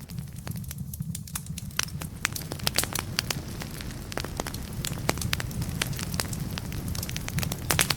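Wood fire in a fireplace crackling, with frequent sharp snaps and pops over a steady low rumble of the flames. The snaps are more frequent and louder toward the end.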